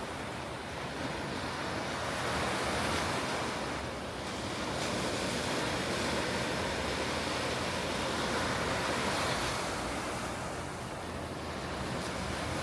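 Ocean surf breaking and washing up the beach as a steady rush that swells and eases with each wave, with some wind on the microphone.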